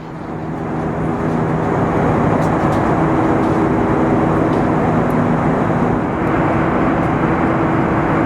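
A vehicle running with a steady engine hum under a loud noisy rumble, swelling up over the first two seconds and then holding steady.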